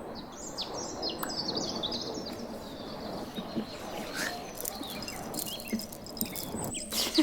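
Birds chirping: many short, high calls over a steady background of outdoor ambience.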